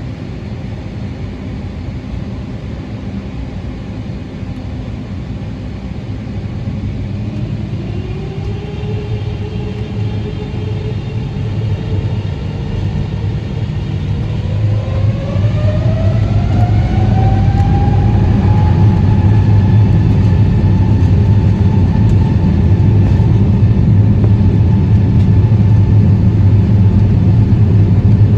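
Boeing 777-300ER's GE90-115B turbofan engines spooling up to takeoff thrust, heard from inside the cabin. A whine climbs in pitch over about ten seconds and then holds steady over a deep rumble that keeps growing louder, as the takeoff roll gets under way.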